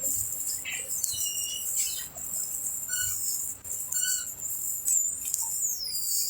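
Birds chirping in short calls, with a falling whistle near the end, over a steady high-pitched insect buzz.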